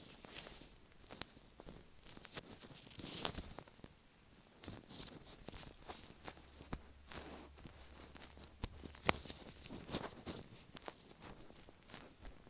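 Latex-gloved fingers tapping and rubbing directly on an earphone microphone, giving close, irregular taps and sticky, crackly rubbing sounds. One sharp tap about nine seconds in is the loudest.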